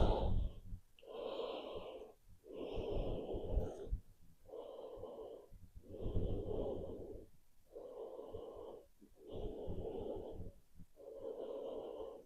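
A woman breathing audibly and deeply in a steady rhythm, about eight breaths, each lasting about a second, with short pauses between.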